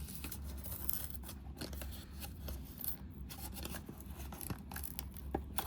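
Small cardboard blind box being worked open by hand: irregular scraping, rustling and small clicks of the cardboard flap and tab as it is eased out without tearing.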